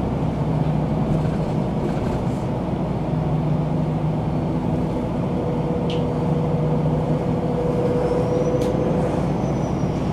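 MAN NG 313 articulated low-floor city bus running steadily, its diesel engine humming evenly. A steady tone joins about halfway through and fades near the end, and there are two brief sharp clicks.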